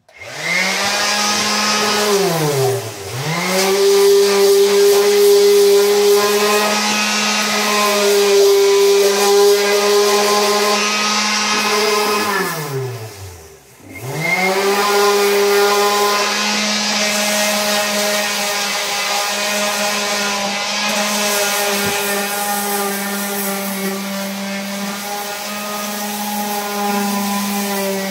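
Electric angle grinder with a sanding disc taking rust off a steel wood stove: it spins up at once, dips and recovers about three seconds in, winds down around halfway, then starts again and runs steadily at high speed.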